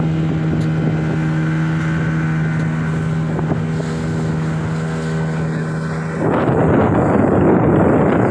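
Motorboat engine running at a steady pitch. About six seconds in, a louder rushing noise takes over and the engine tone is no longer heard.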